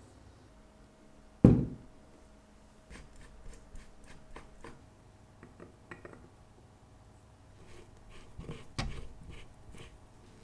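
Small metal clicks and taps of a watch case being handled and set into a hand-operated watch case press, with one sharp loud knock about a second and a half in and a second, weaker knock near the end.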